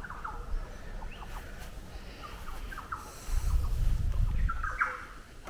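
Birds calling in garden trees: a scattering of short, quick chirps, several falling in pitch. A low rumble comes in about three seconds in and lasts over a second.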